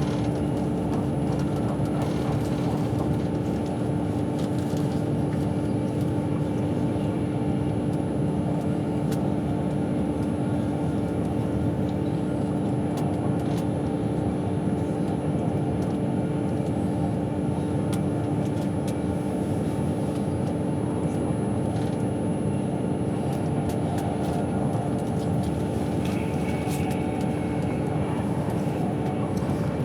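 Steady running noise inside the carriage of an Avanti West Coast express train at speed: a low rumble of wheels on rail with a constant hum and a few faint ticks.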